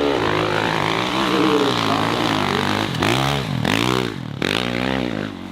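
Dirt bike engine revving hard, the revs rising and falling several times in quick succession from about halfway through.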